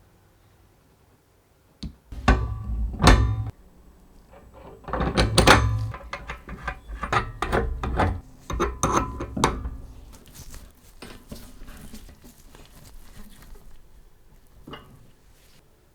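Irregular knocks and clatter of hard parts being handled and fitted, starting about two seconds in, densest in the middle and thinning out towards the end.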